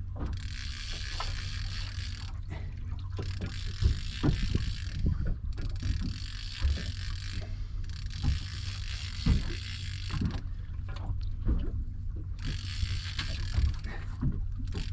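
Fishing reel being wound in repeated spells of about two seconds with short pauses between, as the angler pumps a hooked conger eel up on the rod. Low thumps and knocks come and go underneath.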